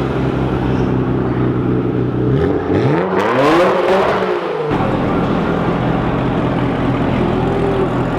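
Car engine idling, then revved once about two and a half seconds in: the pitch climbs, peaks and falls back to idle about two seconds later.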